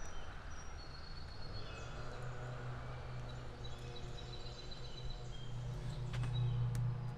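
Small birds chirping, with short high calls scattered throughout, over a steady low hum that grows stronger toward the end. A couple of faint clicks come near the end.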